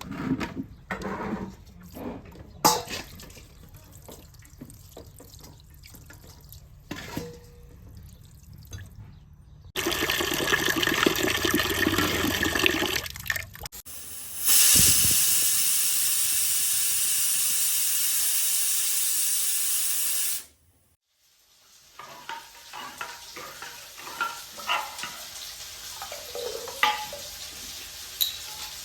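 Kitchen washing sounds: water running from a tap, first for a few seconds, then a louder steady rush for about six seconds that shuts off abruptly. Small knocks and clinks of pots or utensils come before and after.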